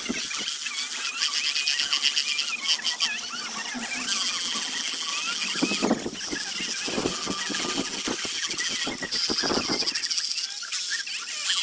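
High-pitched whine of a power tool working wood, its pitch shifting every second or two as it bears on the workpiece.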